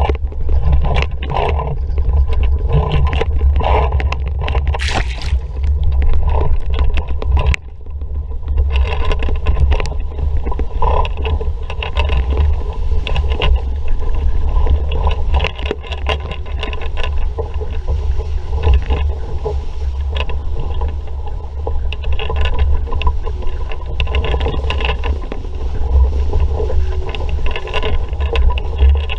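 An RS Vareo sailing dinghy under way in a breeze: a steady low rumble of wind on the microphone, with water rushing and slapping irregularly against the hull.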